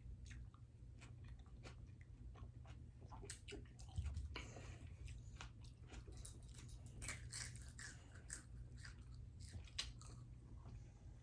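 Close-up chewing and biting of food, a run of short mouth clicks and bites, with one louder thump about four seconds in.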